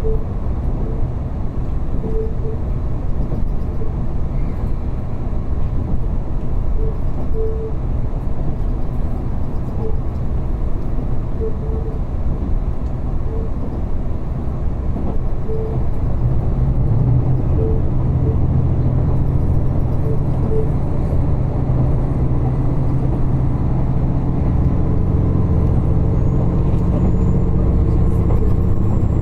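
Diesel railcar running along the line, its engine and wheels giving a steady rumble heard from inside the passenger cabin. About halfway through, the engine note grows stronger and a little louder as it pulls harder.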